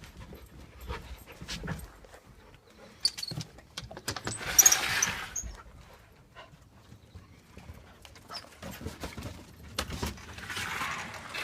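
Puppy moving about on a hard floor: scattered light paw thumps and taps, with two brief hissy rustles, one about five seconds in and one near the end.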